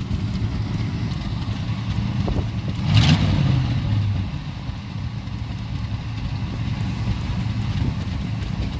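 Car engine running at low speed with a steady low rumble, swelling louder briefly about three seconds in.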